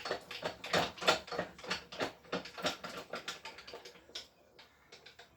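Ratchet wrench clicking rapidly, about four or five clicks a second, while the front wheel's axle nut is tightened; the clicks thin out and fade after about four seconds.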